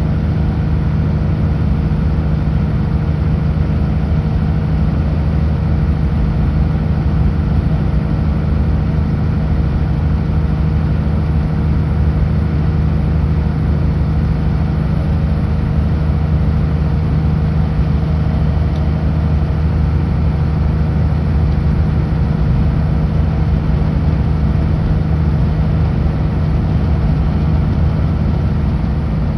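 Kenworth W900L semi truck's diesel engine running steadily at highway speed, a constant low drone that does not change.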